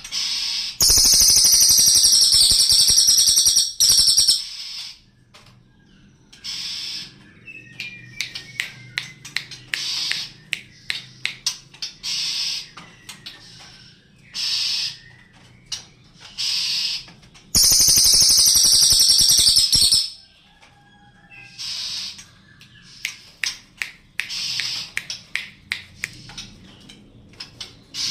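Cililin songbird calling: two long, loud, harsh rattling bursts, one about a second in and one about two-thirds of the way through, with many short high chirps and clicks between them.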